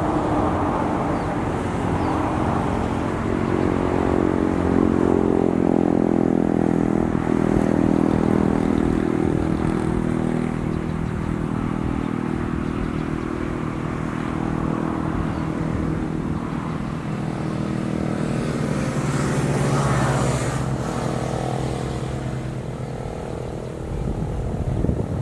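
A small engine running, its pitch rising and falling as it changes speed.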